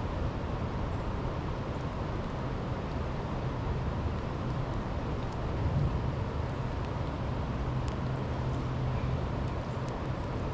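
Steady low rumble of outdoor background noise, with a few faint scattered ticks.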